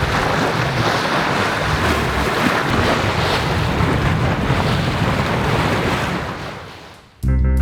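Wind buffeting the microphone over the rush of sea water past a sailing yacht under way, a loud steady noise that fades out near the end. Music with plucked guitar notes cuts in just before the end.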